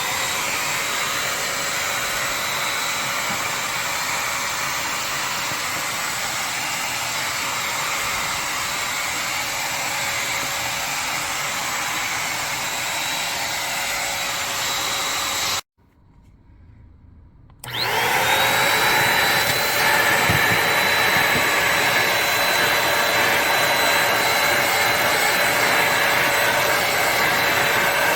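Corded stick vacuum cleaner's motor running with a steady, very loud high whine. About halfway through it is switched off; a couple of seconds later it is switched back on, whining up to speed and running a little louder than before.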